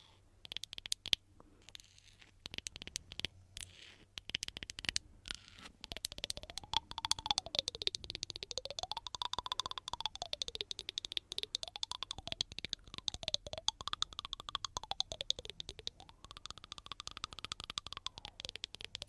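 Stones rubbed against each other: dense, fine gritty scratching. From about six seconds in, a tone joins it, rising and falling every couple of seconds.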